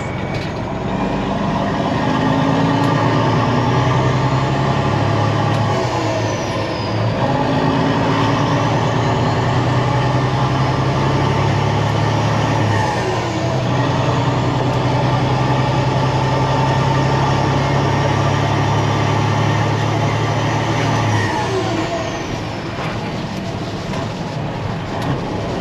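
Peterbilt 379 semi truck's diesel engine running under way through straight exhaust pipes, a steady loud note that breaks and changes three times.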